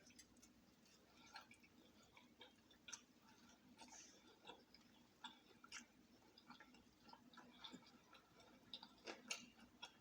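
Faint, irregular clicks and smacks of someone chewing fried chicken, over a low steady room hum.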